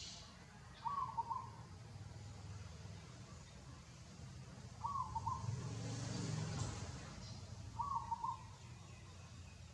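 An animal's short call of a few quick notes, given three times about three seconds apart over a steady low background rumble.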